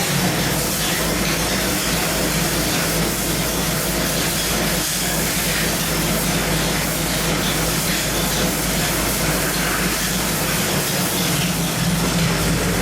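Small-block Chevy 396 V8 running on an engine dynamometer at a steady speed, loud with a hissing roar of exhaust and airflow; the pitch holds steady rather than climbing through a pull.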